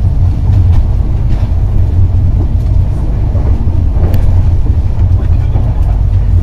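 Intercity passenger coach running along the track, heard from inside the carriage: a loud, steady low rumble of wheels on rails, with a sharp click about four seconds in.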